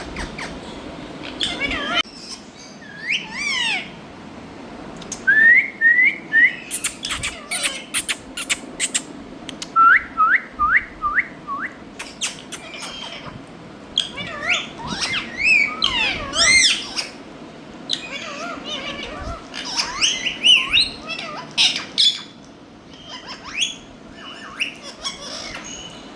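Indian ringneck parrots calling: an irregular string of sharp squawks and short whistled chirps, including a run of five quick matching calls about ten seconds in.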